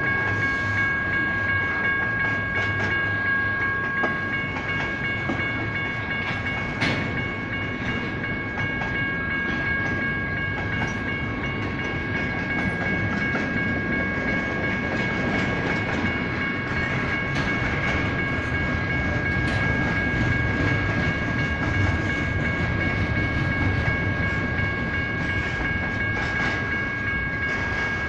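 A train rolling through a grade crossing, its wheels rumbling and clicking over the rails, while the crossing's General Signals Type 1 electronic bell sounds steadily throughout.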